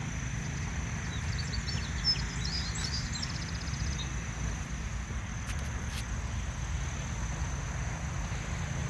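A small songbird sings one short phrase of high chirps ending in a quick trill, over a steady high insect drone and a low outdoor rumble.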